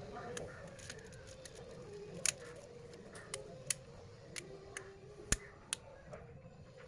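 Irregular light clicks and taps of a smartphone's replacement display assembly and frame being handled and pressed into place, about a dozen in all, the loudest two about two and five seconds in.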